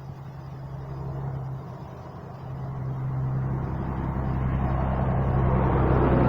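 Peterbilt grain truck's diesel engine running with a steady low tone, growing steadily louder as the truck approaches, with rising tyre and road noise near the end.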